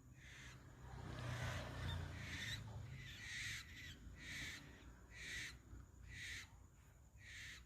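Owls giving harsh, hissing calls in a steady series, about one a second. A low rumble sits under the first few seconds.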